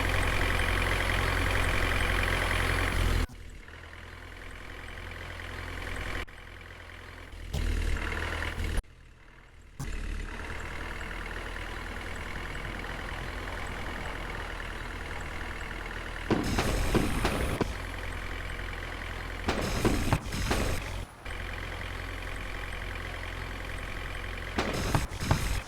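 A vehicle engine running steadily, heard in several pieces that cut in and out abruptly, with louder stretches partway through.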